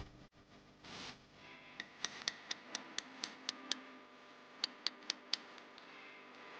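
Quick sharp taps of a hand tool striking oyster shells on rock, about four a second for nearly two seconds, then three more after a short pause: prying rock oysters loose.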